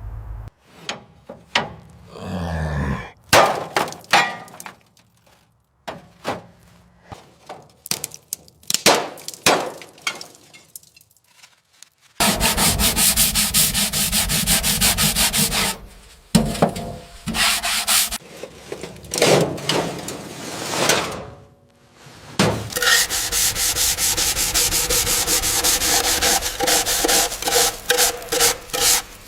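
Abrasive scraping and sanding on a restoration workpiece: short, separate scrapes and knocks at first, then from about twelve seconds in, long stretches of steady, dense rubbing broken by a few short pauses.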